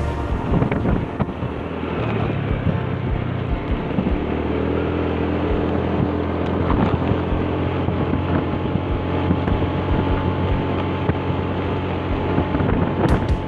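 Vehicle engine running steadily on the move, with wind rushing over the microphone.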